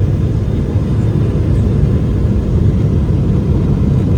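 Steady low rumble of a Boeing 777-300ER heard inside the passenger cabin.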